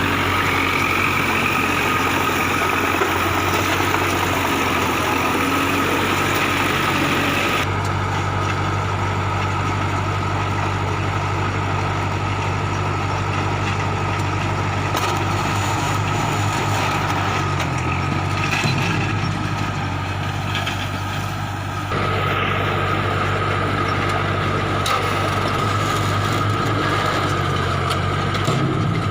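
Kubota MU4501 tractor's four-cylinder diesel engine running steadily while driving a round straw baler, with a steady mechanical whine above the engine. The sound changes abruptly about eight seconds in and again a little past twenty seconds.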